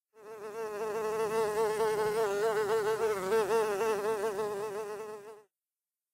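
A housefly buzzing for about five seconds, its pitch wobbling up and down as it flies, fading in at the start and stopping suddenly near the end.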